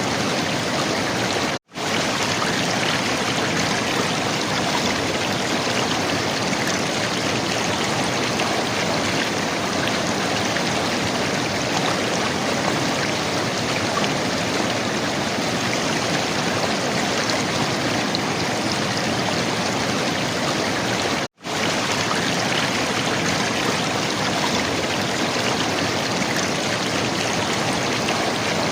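River water running and gurgling in a steady, even rush. It drops out to silence for an instant twice, about two seconds in and about twenty-one seconds in.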